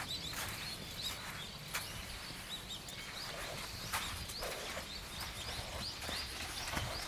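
Small birds chirping over a steady outdoor hiss, with a few short knocks.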